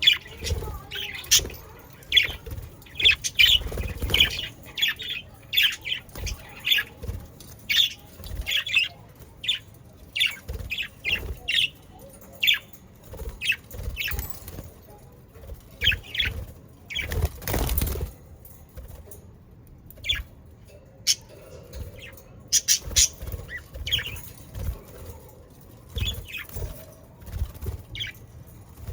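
A flock of budgerigars chirping and chattering in short, irregular calls, with wing flutters now and then.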